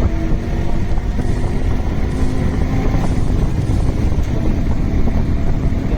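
A Yamaha RX 100's single-cylinder two-stroke engine running steadily while the motorcycle is ridden, with wind buffeting the microphone.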